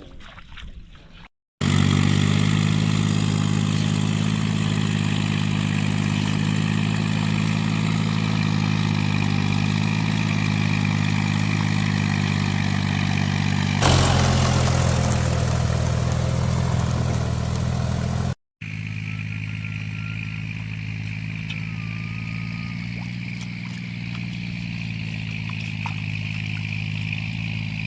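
A small engine running at a steady speed, heard in two clips joined by hard cuts. It grows louder for a few seconds with added rushing noise around the middle.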